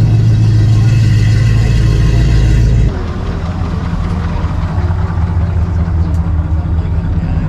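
Car engine running with a loud, steady drone; about three seconds in the sound changes abruptly to a quieter, rougher engine rumble.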